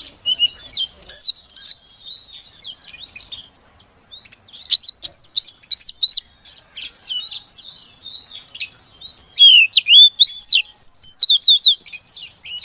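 Female oriental magpie-robin (kacer) calling to a male: rapid runs of short, high, sweeping chirps and whistles in three bouts, with brief pauses between them.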